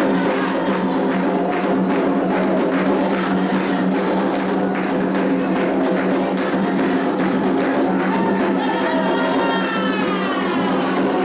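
Candomblé atabaque drums playing a fast, dense ritual rhythm with a wooden or bell-like accompaniment, over steady sustained tones. The rhythm is the rum, the lead drum's dance toque, for Iansã. A few falling pitch glides come in near the end.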